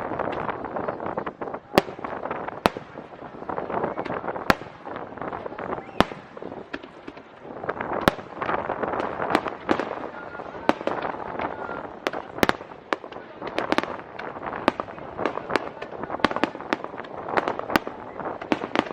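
Aerial fireworks shells bursting in a rapid, irregular barrage of sharp bangs, several a second at times, over a continuous dense din between the reports.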